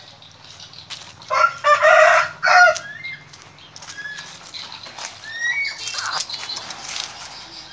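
Bird calls: three loud, harsh squawks about a second and a half in, followed by scattered short chirps.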